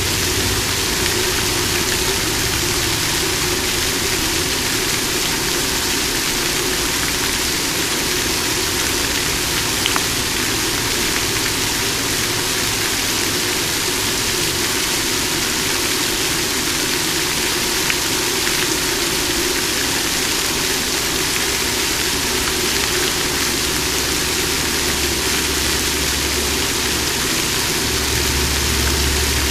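Water fountain splashing, a steady, even rush of falling water. A low rumble rises underneath it near the end.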